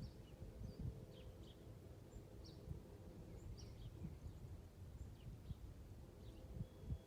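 Wild birds chirping faintly and sporadically, short high chirps scattered throughout, over a low steady rumble with a few soft thumps.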